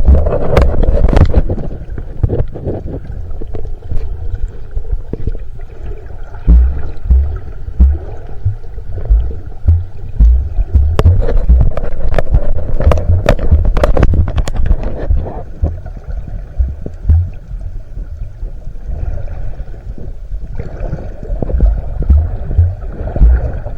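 Water sloshing and gurgling against the camera as it moves through the water while snorkelling, with frequent irregular low thumps and sharp clicks.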